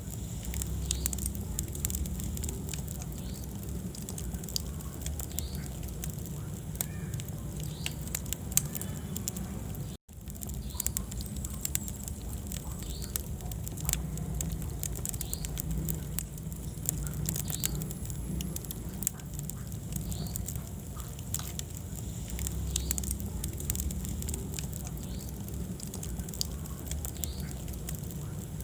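Wood fire burning in a fireplace, crackling with frequent sharp pops over a low steady rumble of the flames. The sound cuts out for an instant about ten seconds in.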